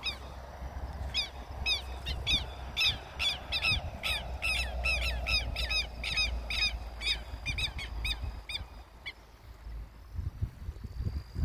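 A bird calling over and over: a fast series of sharp, downward-slurred notes, about two to three a second, stopping about nine seconds in. A steady low wind rumble on the microphone runs underneath.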